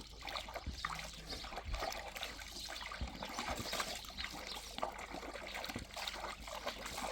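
Water trickling and splashing steadily, with many small irregular splashes.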